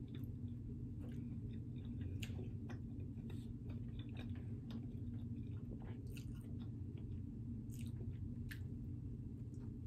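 A person biting and chewing pepperoni pizza close to the microphone, with scattered short mouth clicks through the chewing, over a steady low hum.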